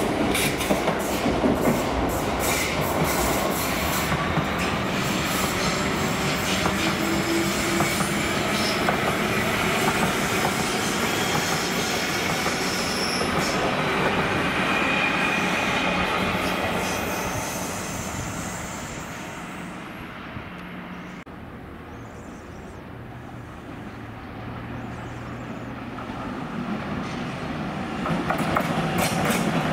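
Electric passenger train passing close, wheels clicking over rail joints with some wheel squeal; the noise fades away after about 17 seconds. Near the end, the rail noise builds again as a Class 186 Traxx electric locomotive hauling ICRm coaches approaches.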